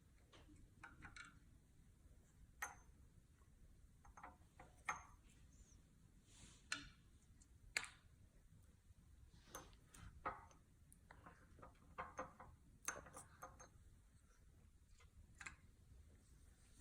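Faint, scattered clicks and light taps, about a dozen spread out, some with a brief high ring, from a syringe and glassware being handled on a table.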